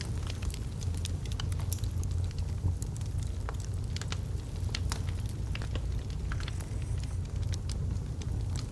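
Wood fire in a fireplace burning steadily: a low rumble of flames with irregular sharp crackles and pops from the burning logs.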